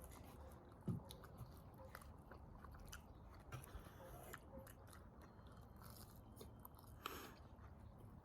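Quiet chewing and mouth noises from people eating pizza, with scattered small clicks and a soft tick about a second in.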